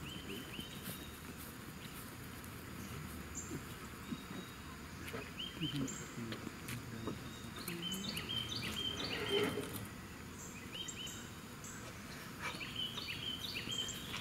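Small birds chirping outdoors: many short, quick high notes repeating throughout, busiest in the second half, with faint talking underneath.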